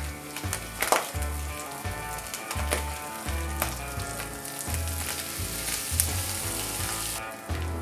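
Corned beef hash sizzling as it fries in a nonstick pan, with scrapes and knocks of a nylon spatula as it is flipped over; the sizzle grows louder in the later part and drops away near the end. A background music beat runs underneath.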